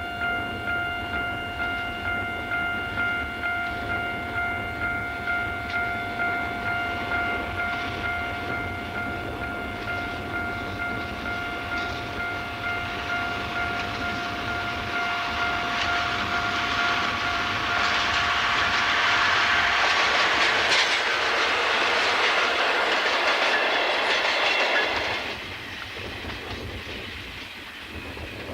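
A level-crossing warning bell rings with a steady pulse while a mixed train hauled by two DE10 diesel locomotives approaches and passes with a growing rumble and wheel clatter. The bell fades out about 20 seconds in, and the passing train noise stops abruptly about 25 seconds in.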